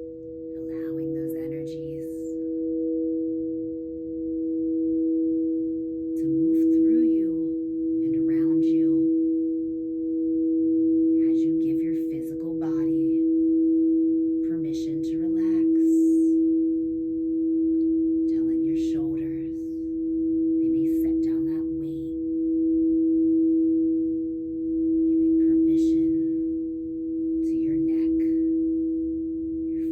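Singing bowl ringing in one long sustained tone with two pitches sounding together, its loudness swelling and fading about every two seconds.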